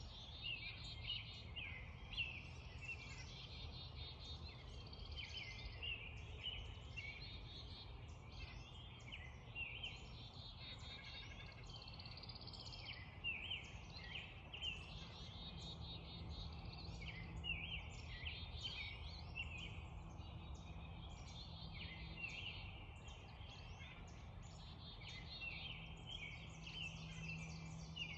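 A spring dawn chorus of many songbirds chirping and singing continuously, one song repeating every few seconds, over a steady low background rumble with a faint low hum coming in about halfway.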